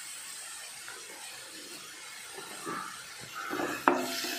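Chopped onions and spices sizzling softly in hot oil in a kadai. Near the end a wooden spatula starts stirring, scraping through the onions with one sharp knock against the pan.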